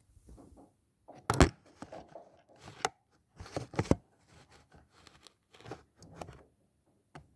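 Irregular rustling and crinkling with a few sharp knocks, the loudest about a second and a half in and again about four seconds in.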